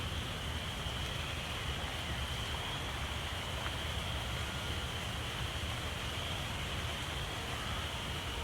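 Steady rushing of water outdoors after heavy rain, with a thin, steady high-pitched drone over it.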